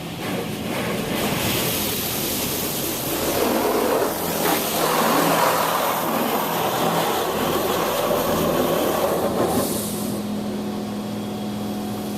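Spot-free rinse water from a touch-free automatic car wash spraying over the car's roof and body, heard from inside the car as a loud, steady rush of water. It builds about a second in and eases off near the end, leaving a steady machinery hum.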